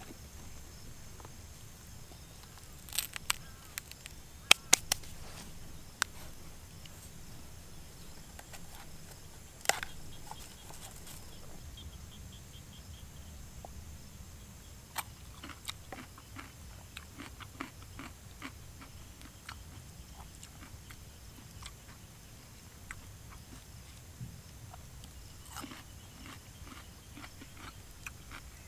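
A few sharp cracks and knocks of wooden sticks in the first ten seconds, then a run of small crisp crunches and chewing as raw cucumber and grilled fish are eaten.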